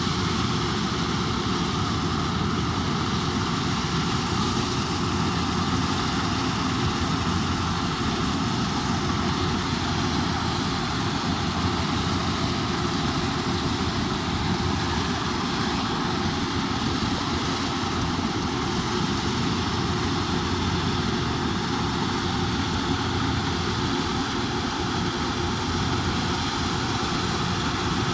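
Kubota DC108X combine harvester running steadily at constant engine speed while harvesting rice.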